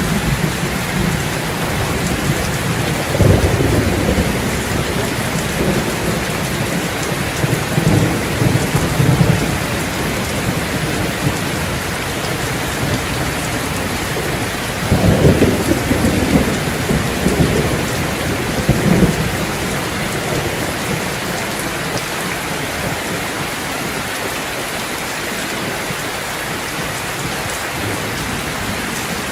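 Steady heavy rain, with thunder rolling in low rumbles several times: a few seconds in, again around eight seconds, and a longer roll a little past the middle.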